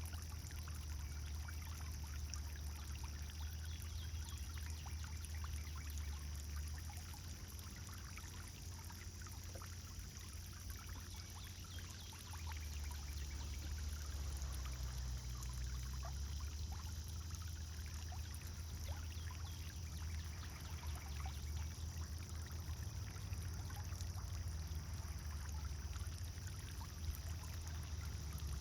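Pond fountain water pouring and splashing steadily onto the pond surface, with a low rumble underneath that eases off for a few seconds about a third of the way in.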